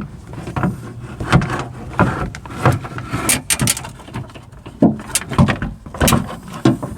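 Irregular knocks, clicks and short scraping as a door latch cable is worked by hand into the inner panel of a Lexus SC430 door.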